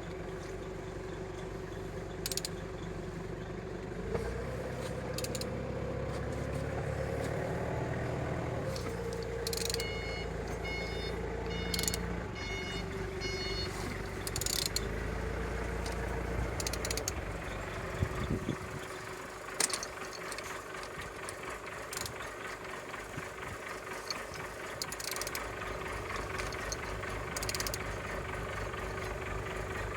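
Mercedes OM651 four-cylinder diesel being turned over by hand, with clicks and rattles from the crank and tool. A low engine rumble from a vehicle runs underneath until it drops away about two-thirds of the way in, and a short run of evenly spaced high beeps comes near the middle.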